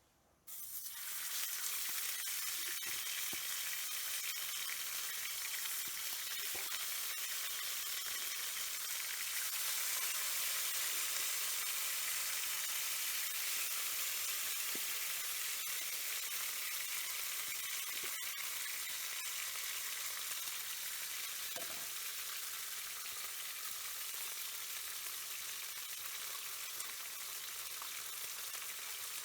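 Food sizzling steadily in a hot pan, starting suddenly about half a second in, with a few faint clicks through the hiss.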